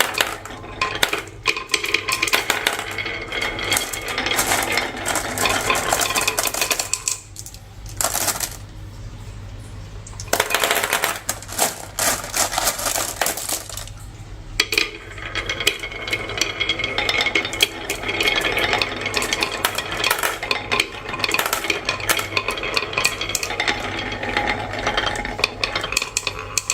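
Many marbles rolling and clattering down a marble run, a dense stream of clicks and clacks. It goes quieter about seven seconds in and again briefly around fourteen seconds.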